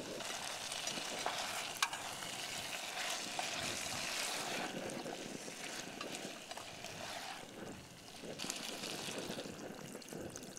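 Pre-fried vegetables sizzling in hot, freshly fried kadai masala as they are added to the pan and stirred. There is a steady frying hiss with a few sharp clicks of the spoon against the pan, the loudest about two seconds in, and the sizzle dies down somewhat near the end.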